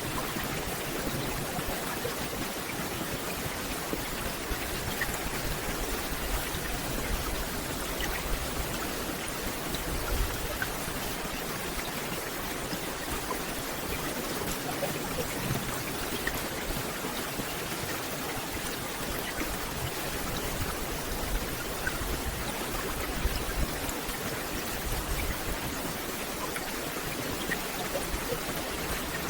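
Steady rain falling on forest foliage: an even, unbroken hiss with scattered single drops ticking through it.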